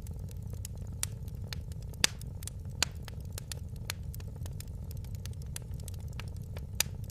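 Wood fire crackling in a fireplace: irregular sharp pops and snaps over a steady low rumble of the burning fire, with a louder pop about two seconds in.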